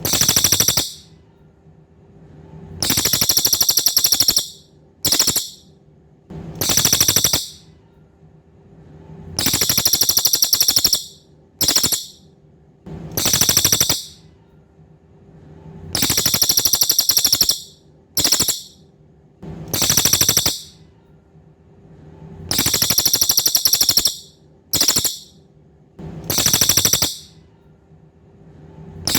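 Cililin songbird singing rapid, high trills in a repeating pattern: a long trill, a short burst, then a medium trill, with pauses of a second or two between them.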